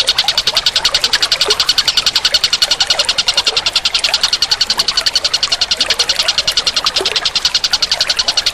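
A steady, high-pitched animal trill, pulsing rapidly at about nine beats a second, with faint short chirps underneath.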